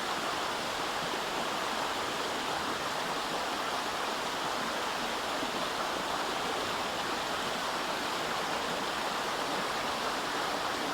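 A flowing river rushing steadily over stones: an even, unbroken water noise.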